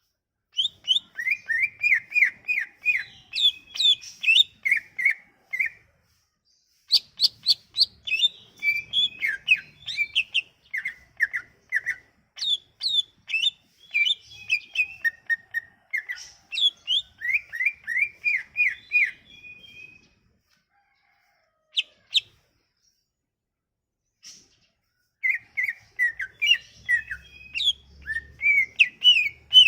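Cucak ijo (greater green leafbird) singing a lively song of rapid chirped and whistled notes in long phrases. The bird pauses briefly twice, with a longer near-silent gap in the last third before the song resumes.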